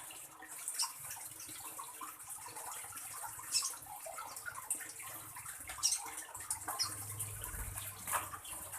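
Steady sound of running water, with short sharp high sounds scattered through it.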